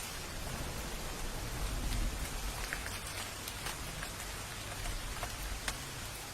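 Steady rain with a dense hiss of falling drops, and a few sharper drips ticking out of it. A low rumble swells briefly about two seconds in.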